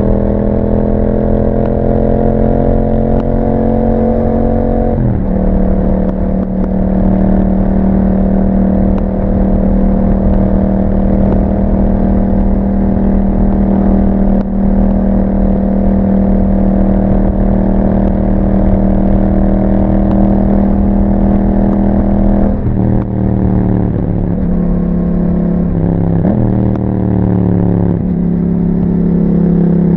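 2021 Yamaha MT-07's parallel-twin engine running through an Akrapovic exhaust while riding. The engine speed slowly rises, then drops suddenly about five seconds in, as at an upshift, and holds a steady cruise. Near the end the engine speed changes up and down several times before it settles again.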